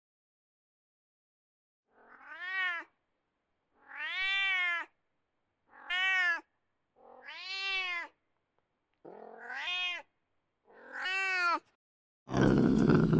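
Leopard cat mewing: six short meows, each rising and then falling in pitch, one every second or two. Near the end a louder, rough, low sound cuts in.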